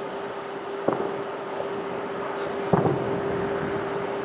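Distant fireworks shells bursting, heard from nearly 3 km away as two dull bangs: one about a second in and a louder, rumbling one near the three-second mark. A steady low hum runs underneath.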